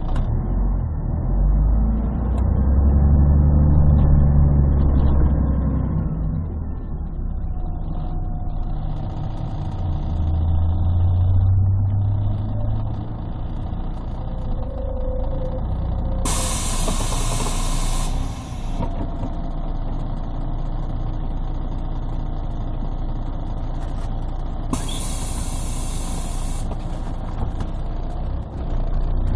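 Inside a 1998 Scania CN113CLL city bus: its Scania DSC 11 diesel engine running, rising and falling in pitch in the first half. Two loud hisses of compressed air from the bus's air system, each about two seconds long, come about halfway through and near the end. The sound is bass-heavy because the microphone is partly covered.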